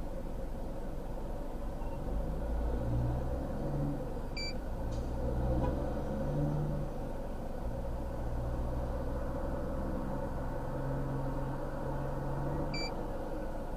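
A motor vehicle running with a steady low rumble, with two short electronic beeps about eight seconds apart.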